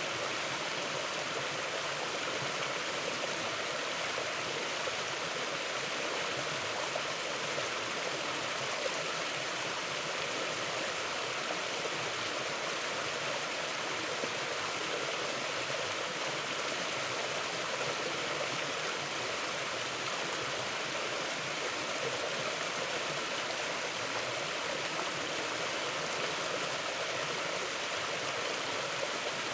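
Mountain river flowing steadily over rocks: a constant rushing of water.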